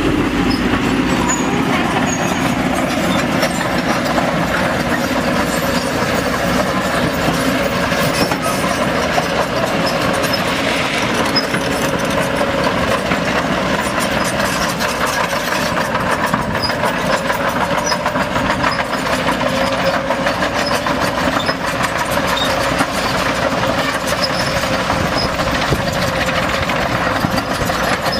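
A diesel engine of heavy equipment runs steadily and loud throughout, without letting up.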